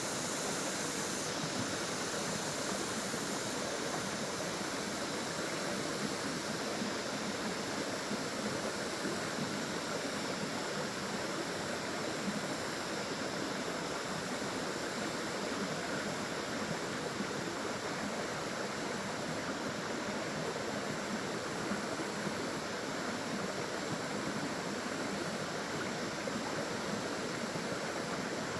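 Water of a small waterfall or stream rushing and splashing, a steady even wash of noise.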